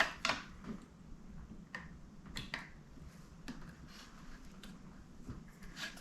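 Irregular light clicks and taps from hands and tools working on a bass guitar, about ten over several seconds, the sharpest right at the start.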